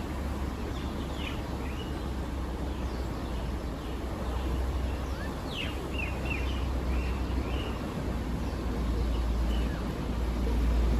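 Small birds chirping in short calls on and off, over a steady low rumble.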